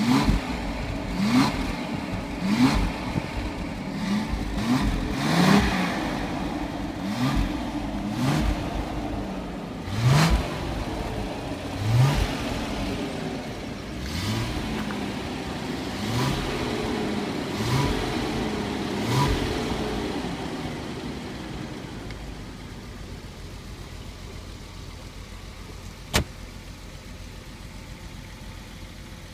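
Daimler Double Six's 5.3-litre V12 revved in short throttle blips while standing still, about a dozen over the first twenty seconds, each rising and falling in pitch. After that it settles to a steady idle. One sharp click comes near the end.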